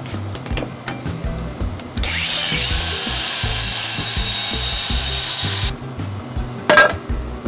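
Power saw cutting a piece of roof tile: a high hiss that starts abruptly about two seconds in, runs for about three and a half seconds and cuts off suddenly, followed by a single sharp knock. Background music plays throughout.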